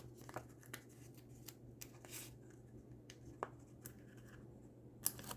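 Faint, scattered taps and light rustles of paper and cardstock being handled and pressed down on a work surface.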